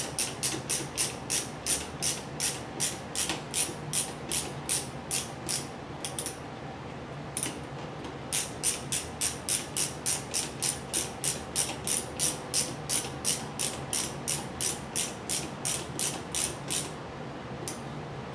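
Ratcheting screwdriver clicking steadily, about three clicks a second, as two screws are driven into a monitor's stand bracket. There are two runs of clicks, one per screw, with a pause of about two seconds between them.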